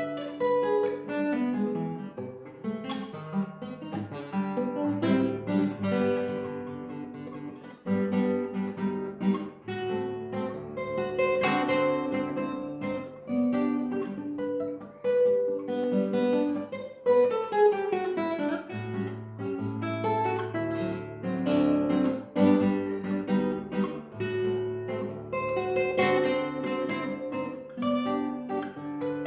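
Acoustic guitar playing a waltz: plucked melody notes over chords and bass, with a quick descending run a little past halfway.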